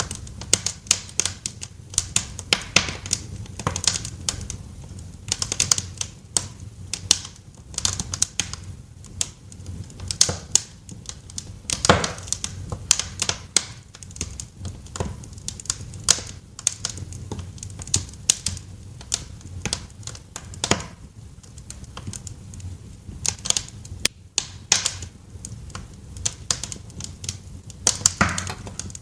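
Wood fire crackling in a fireplace: irregular sharp pops and snaps over a low steady rumble, with a couple of louder snaps along the way.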